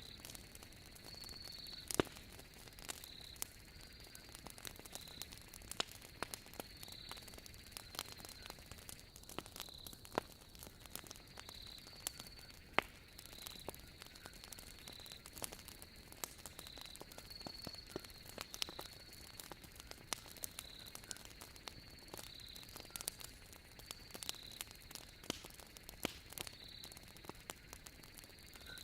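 Wood fire burning in a fireplace, crackling with frequent small snaps and a few sharper pops, over a soft steady hiss. Behind it runs a repeated high chirping of night insects, a short note every second or so.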